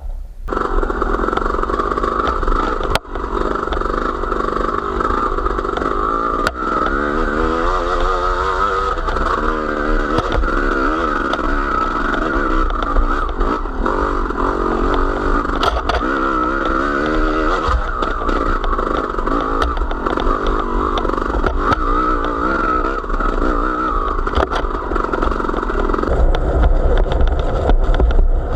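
A small vehicle's engine running while riding, its pitch rising and falling repeatedly with the throttle, with occasional knocks and clatter.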